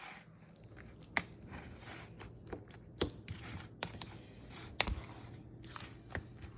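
Scattered light clicks and taps of kitchen utensils and containers being handled during food preparation, irregular and faint.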